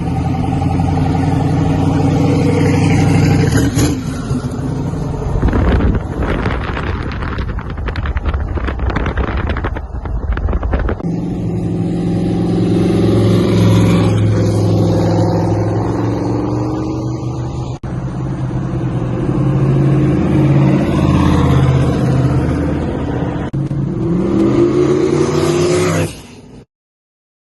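Twin-turbocharged LS V8 of a 1932 Chevrolet sedan rat rod running and revving, its pitch rising and falling. A stretch of rushing noise comes about a third of the way in, and the engine cuts off abruptly near the end.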